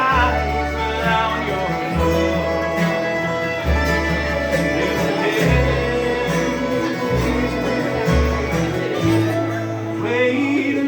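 Bluegrass song in an instrumental passage: acoustic string band with guitar and bass, the bass notes changing about once a second.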